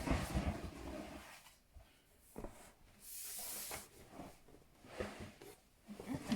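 A person breathing close to the microphone, with a sharp hissing intake of breath about three seconds in and faint scattered clicks.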